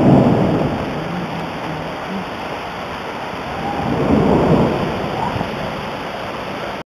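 Thunder rumbling during a thunderstorm over a steady hiss of rain. One rumble fades away over the first couple of seconds and another swells and dies around four seconds in. The sound cuts off abruptly just before the end.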